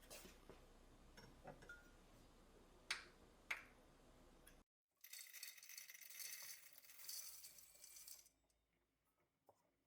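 Faint household handling sounds: two light clinks about three seconds in, then, after a brief silence, a few seconds of soft high hiss that stops suddenly.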